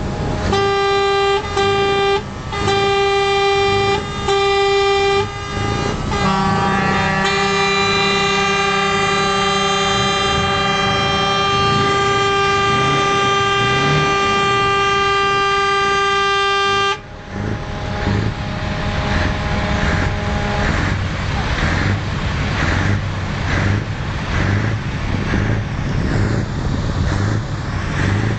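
Scania truck's air horns sounding several steady tones together: about four short blasts, then one long blast held for roughly ten seconds that cuts off suddenly. After the horn stops, the truck's diesel engine is heard running with an even low pulsing.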